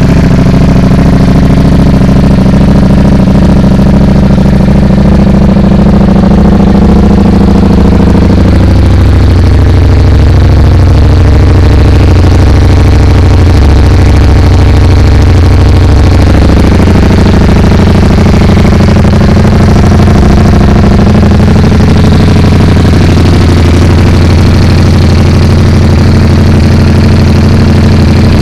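Ducati Panigale V4's V4 engine idling after a cold start through an Arrow titanium slip-on exhaust, a loud, steady idle. Its note shifts slightly about a third of the way in and again a little past halfway.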